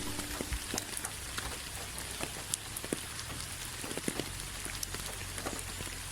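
Steady rain falling: an even hiss with many scattered drops ticking.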